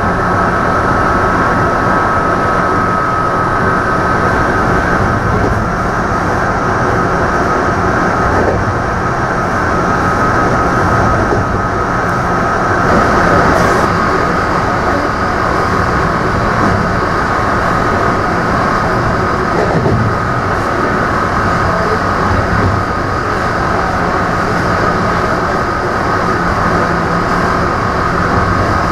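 Running noise of an electric passenger train heard from inside it: a steady rumble of wheels on rail with a steady high whine over it.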